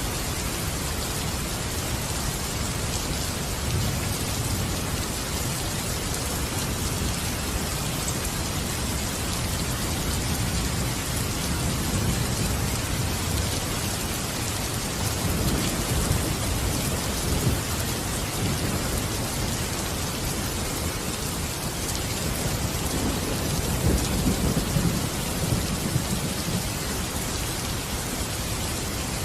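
Steady rain, with low rumbles of thunder swelling and fading several times.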